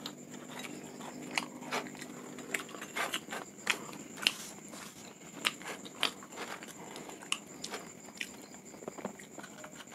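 Close-miked chewing of toasted bread filled with fried crickets: soft, irregular crunches and mouth clicks.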